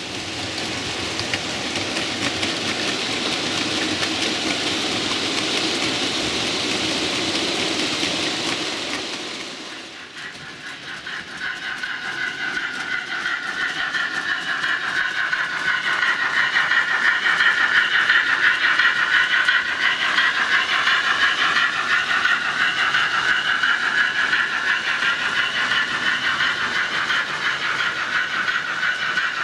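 Model railway trains running on the layout with DCC sound-fitted locomotives, their sound coming from small onboard speakers. For about the first ten seconds there is a steady hiss-like noise. After a sudden change near ten seconds comes a wavering, higher-pitched loco sound that carries on to the end.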